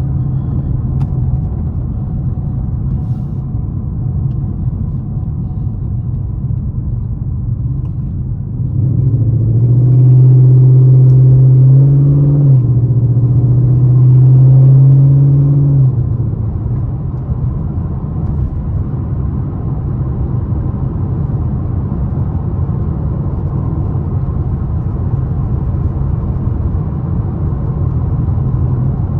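Ford Mustang GT's V8 engine and tyres running at a steady cruise. About nine seconds in, the engine gets much louder under throttle for about seven seconds, its pitch stepping up partway through, then eases back to cruise.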